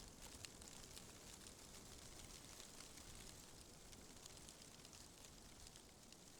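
Wind blowing through tree leaves: a faint, steady rustling hiss with small scattered crackles.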